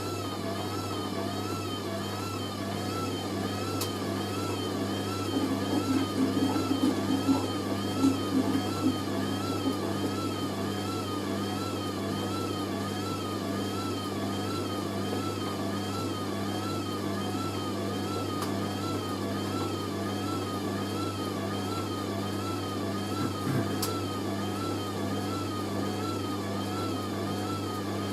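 Hoover A3060 Electronic 1100 washing machine spinning a heavy sofa throw in an intermediate spin: a steady motor hum with a whine that wavers up and down about once a second. About five to nine seconds in there is a stretch of louder knocking and rattling. The load is still somewhat unbalanced.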